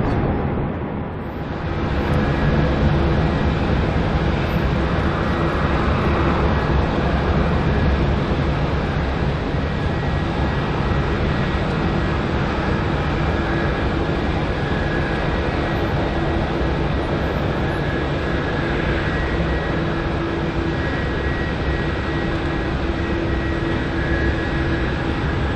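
Twin jet engines of a Boeing 777 airliner on landing, a steady loud rush with a steady whine running through it. A brief quieter moment comes in the first two seconds before the noise sets in.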